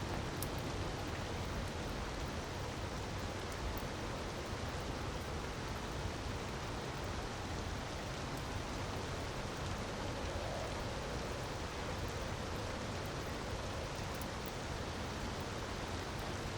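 Steady hiss of falling water, rain-like, with a few faint crackles from a wood fire.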